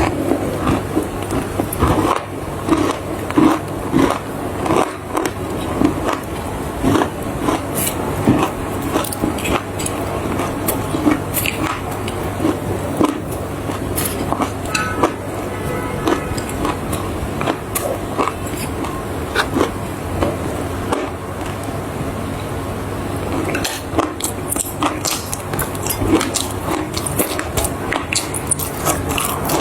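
Dry clay being bitten and chewed close to the microphone: many irregular, crisp crunches, often several a second, over a steady low hum.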